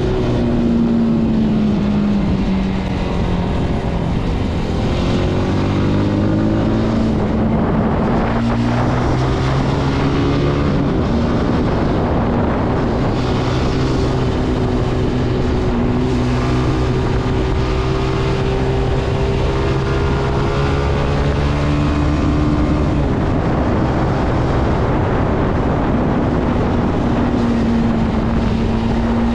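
Zontes C125 motorcycle engine running under way, its pitch dropping as it slows early on, then climbing again and holding steady through the bends, with wind noise.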